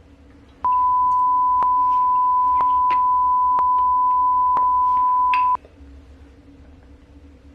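Censor bleep: a steady, loud, high beep tone that starts about half a second in and cuts off suddenly about five seconds later, with faint clicks about once a second.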